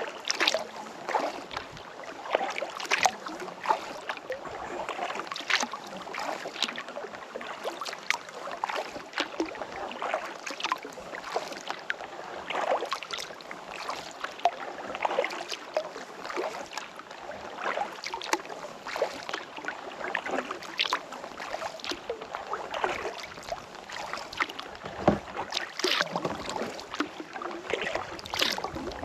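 Kayak paddle strokes in calm lake water: irregular splashes and drips from the paddle blades, with water lapping at the hull.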